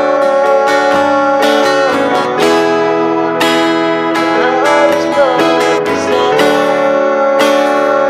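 Instrumental interlude played on a Yamaha PSR-450 keyboard: guitar-like plucked tones over held chords that change every second or so, with a lead melody that bends in pitch about halfway through.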